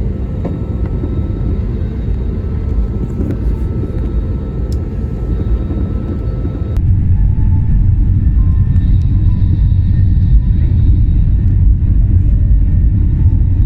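Airliner cabin noise: a steady low rumble of engines and airflow, which steps up suddenly and gets louder about seven seconds in.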